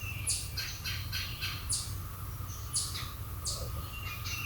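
Distant chorus of periodical cicadas, a faint steady drone, with birds chirping over it several times in short, high, falling calls. A low rumble lies underneath from the cellphone mic's boosted audio.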